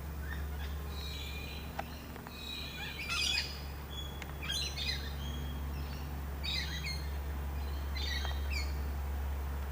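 Birds calling outdoors: clusters of short, high chirps and squawks every second or two, over a steady low hum.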